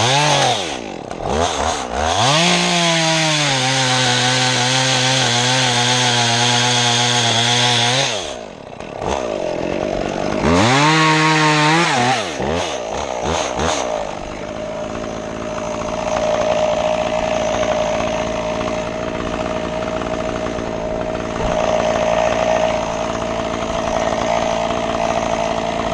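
Stihl chainsaw revving up and cutting cedar limbs at full throttle, easing off, then revving and cutting again. Its pitch rises and falls with the throttle. Roughly halfway through it gives way to a steadier, lower engine hum.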